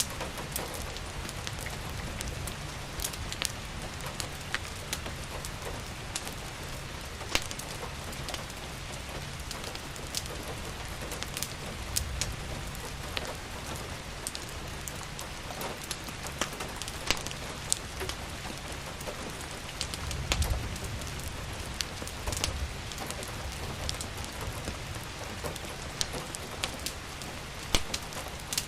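Steady rain falling, with irregular sharp pops and crackles of a wood fire scattered through it. A few brief low rumbles come about twelve seconds in and again around twenty seconds.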